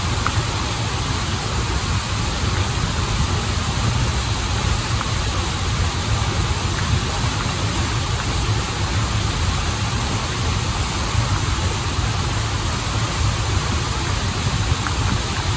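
Waterfall and river water rushing steadily, a dense hiss over a deep, even rumble.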